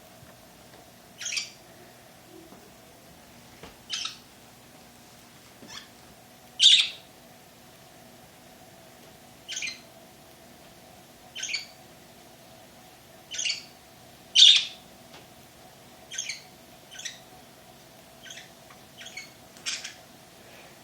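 Birds giving short, harsh, high-pitched calls, about one every second or two at uneven intervals, with two calls louder than the rest.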